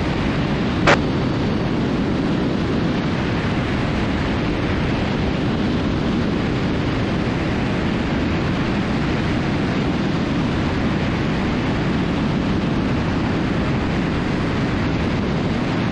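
Steady rush of wind and engine noise from a Cessna 310 twin in flight, picked up by a camera mounted out on the wing. A brief click about a second in.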